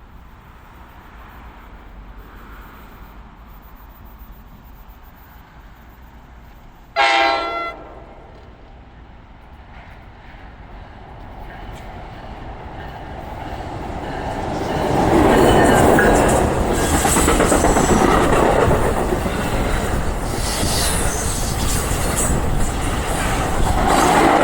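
Steady rain hiss, then one short blast of an NJ Transit train horn about seven seconds in, an odd sound the uploader puts down to the rain waterlogging the horns. The train then approaches, growing louder, and runs through with its wheels clattering over the rail joints.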